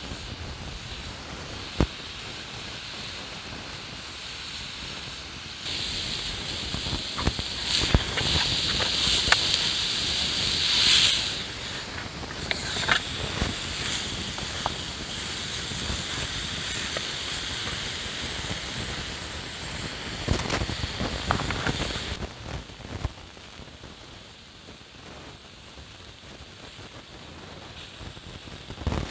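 Pork chop sizzling in a pan over a crackling campfire. The sizzle comes in about six seconds in and stops abruptly at about twenty-two seconds, with sharp pops from the fire throughout.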